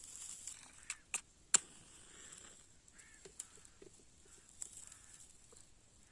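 A few sharp clicks and knocks, the loudest about a second and a half in, over faint short bird calls.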